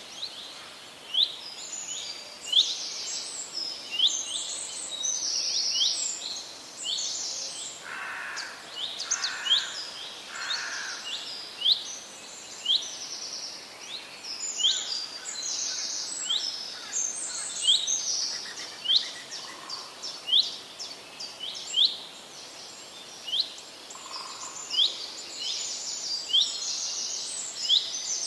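Birds calling continuously: many short, high chirps and squeaks repeated about once a second, with a few lower, harsher calls about eight to ten seconds in.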